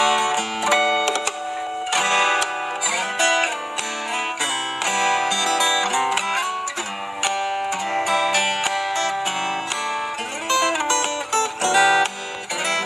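Guitar music: a continuous run of plucked guitar notes, melody and chords together, with sharp picking attacks throughout.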